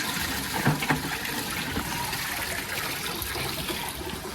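Water pouring steadily into a bucket as it is filled to give the horses fresh water.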